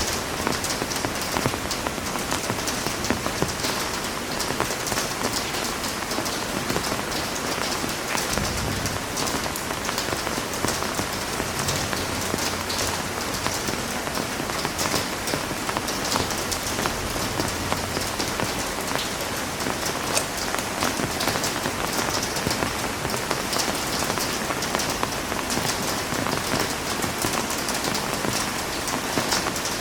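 Heavy rain pouring steadily, a dense patter of drops hitting a surface, with a soft low rumble from about eight seconds in for several seconds.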